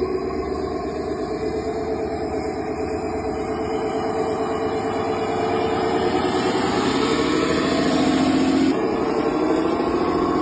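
An engine running steadily, its pitch rising slowly over several seconds and changing abruptly near the end.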